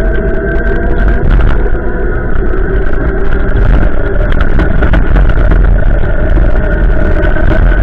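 Strong storm wind gusting over the microphone: a loud, continuous rumble with a few steady whistling tones above it.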